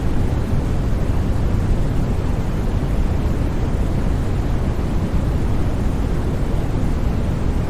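Steady sleep-track white noise: an unbroken, even rush of noise, heaviest in the low end, that does not change at all.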